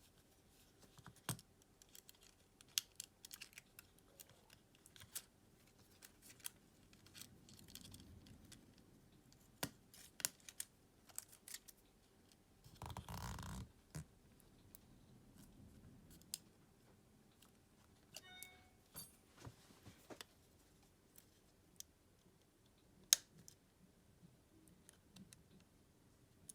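Small scattered clicks and taps of tools and parts being handled while a smartphone is worked on, with a brief rushing noise about halfway through.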